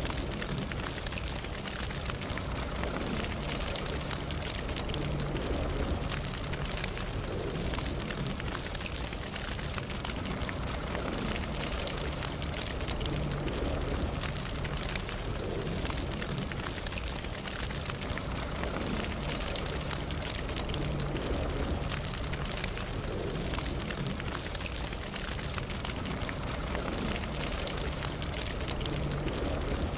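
Campfire burning, a steady hiss of flames with dense small crackles and pops throughout.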